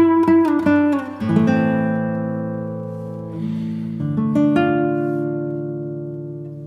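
Background music on acoustic guitar: quick plucked notes in the first second, then held chords left to ring and fade.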